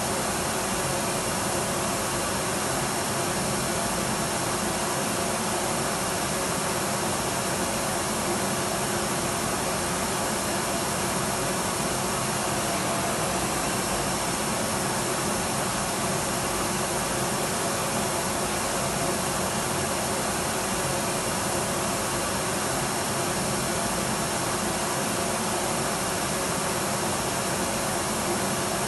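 Electric vacuum cleaner running steadily: an even, unchanging rushing hiss with a faint motor hum.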